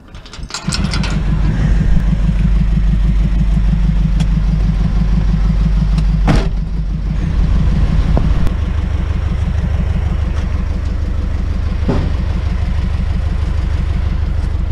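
A truck engine starts up under a second in and runs steadily with a low, even drone; its note shifts about eight seconds in, as with a change of gear or load.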